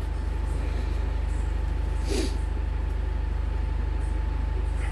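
A machine running steadily in the workshop: a low drone with a fast, even pulse and a faint steady whine. About two seconds in there is a short, brief rasp.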